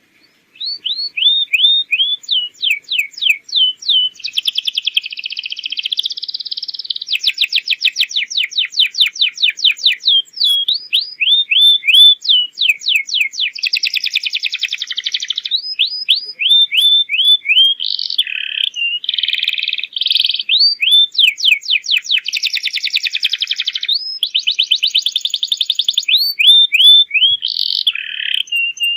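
Domestic canary singing a long, continuous song that starts about half a second in. Runs of quickly repeated sweeping whistled notes alternate with fast, dense trills.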